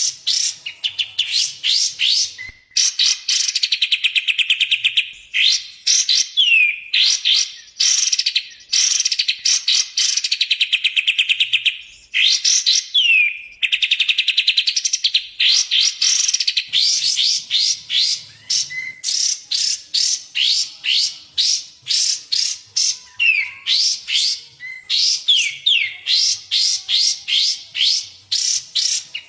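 Recorded songbird song from a masteran tape of kapas tembak and cucak jenggot: fast rattling runs of high chirps and trills broken by short pauses, with a few quick falling whistles between the runs.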